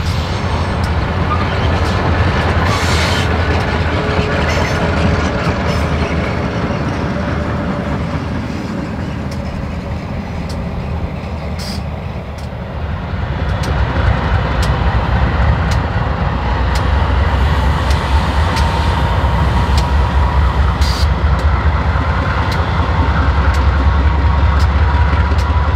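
Freight train rolling past: a steady heavy rumble of diesel locomotives and freight cars on the rails, with scattered sharp clicks of wheels over the track. It grows louder about halfway through.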